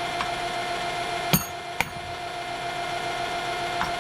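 A small metal lathe running with a steady hum, and two sharp metallic clinks of metal tooling about a second and a half in, half a second apart, the first ringing briefly.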